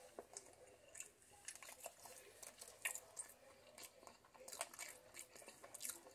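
Faint, irregular wet clicks and smacks of a person chewing a bite of a croissant breakfast sandwich with sausage, egg and cheese.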